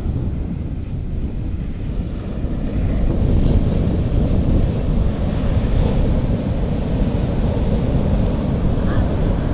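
Gentle sea waves washing on a beach, with wind rumbling on the microphone; the wash swells about three seconds in.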